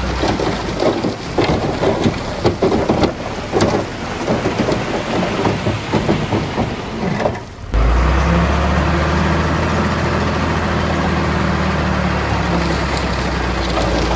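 Bulldozer at work: rock and soil clattering and crackling over a low rumble. About seven and a half seconds in, the sound dips sharply, then changes to a steady diesel engine drone.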